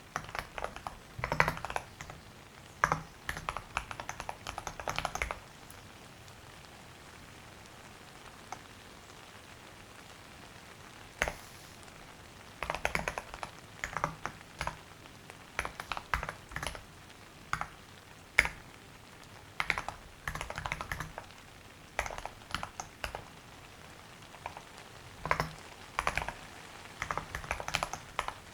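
Typing on a computer keyboard: rapid runs of key clicks in short bursts. The typing stops for about seven seconds, with one lone click partway through, then resumes in bursts.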